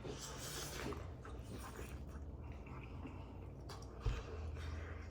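A person chewing food, over a low steady hum, with one soft thump about four seconds in.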